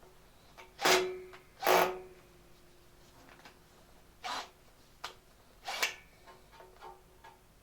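Metal clanking as steel parts or tools are handled on a workbench: two loud knocks, each leaving a ringing metallic note, then several lighter knocks.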